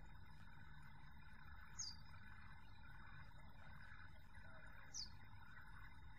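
Two short, high bird chirps, each falling in pitch, about three seconds apart, over a faint steady rumble of breeze.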